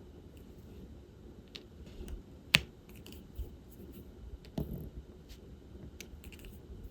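Scattered small plastic clicks and taps from diamond painting work: resin drills, the drill pen and the plastic bead tray and case. One sharper click about two and a half seconds in is the loudest.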